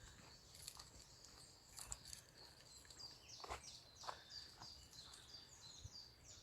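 Faint woodland birdsong: several small songbirds chirping, with many short high notes following one another quickly.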